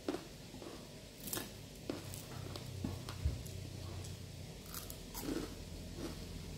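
Close-up eating sounds: a person chewing and biting a mouthful of food, with scattered short crunches and wet mouth clicks. Fingers pick food off a plate between bites.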